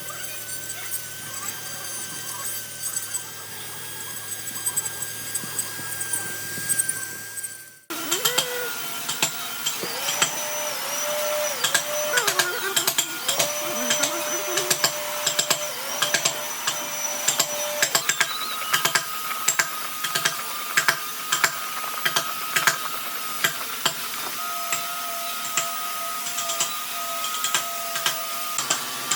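Handheld power tool working wood: a steady motor whine that cuts off abruptly about eight seconds in, then starts again with its pitch dipping and recovering several times before settling into a steady run. Many sharp ticks are heard throughout.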